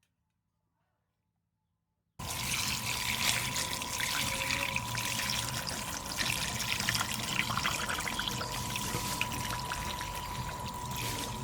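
Water pouring or running, starting abruptly about two seconds in after silence.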